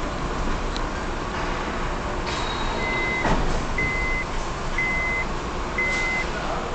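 A vehicle's reversing alarm beeping about once a second, starting a little under three seconds in, over a steady rumble of vehicles on a ferry's car deck. A single short knock sounds just after the beeping begins.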